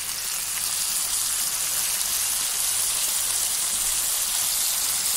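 Chicken drumsticks sizzling as they fry in oil in a non-stick wok, just coated with oyster sauce. A steady high hiss that swells a little in the first second.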